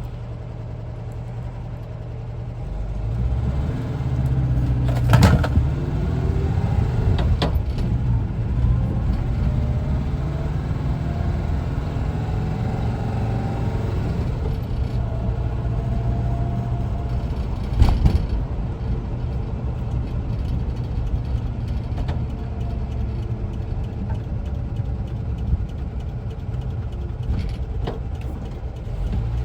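1974 Volkswagen Westfalia camper's air-cooled Type 4 flat-four engine running under way. It gets louder a few seconds in and rises in pitch as the bus accelerates. Three sharp knocks come through, the loudest about five seconds in.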